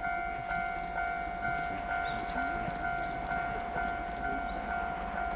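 Japanese railway level-crossing alarm ringing, an electronic two-tone clang repeating about twice a second, with faint bird chirps.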